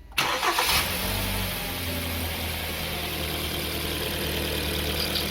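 Freshly rebuilt Hyundai G4KD four-cylinder petrol engine starting for the first time: it catches almost at once, flares up in revs, and about two seconds in settles into a steady idle. It runs smoothly and softly on its new pistons, rings and bearings.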